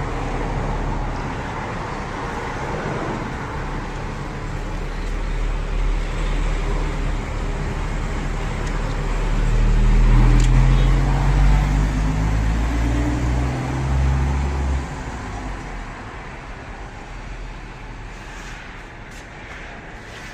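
Lexus ES300 engine running after its spark plugs and ignition coils were refitted, to check a multiple-cylinder misfire. It is revved up about ten seconds in and drops back to idle near fifteen seconds.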